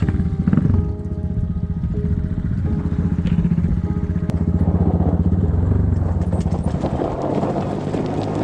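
Enduro motorcycle engine running, revving up briefly about half a second in and then holding a steady pitch, with a rough, noisy rattle growing in the second half.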